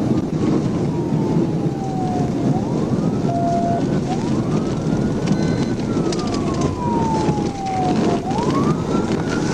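Police car siren on a slow wail, its pitch rising and falling about every three and a half seconds, over a loud steady rush of engine, tyre and wind noise from the cruiser at high speed.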